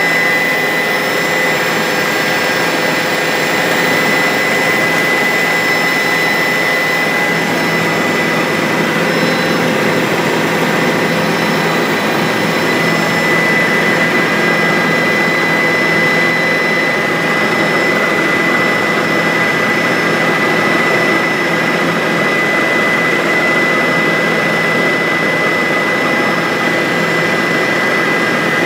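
Bell 407 helicopter in steady flight: the single turboshaft engine's constant whine, with a high steady tone, over a dense, even rotor and engine noise that does not change.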